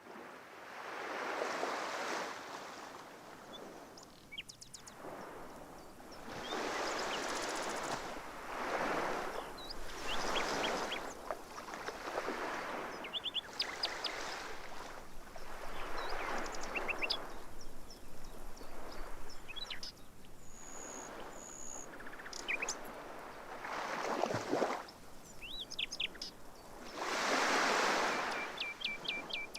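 Sea waves washing in and out in repeated swells every few seconds, with small birds chirping in short high calls throughout.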